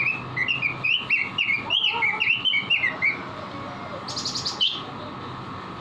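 Red-billed leiothrix (Pekin robin) singing vigorously: a fast run of short whistled chirps for about three seconds, then, a little past four seconds, a brief high rapid trill ending in a single note.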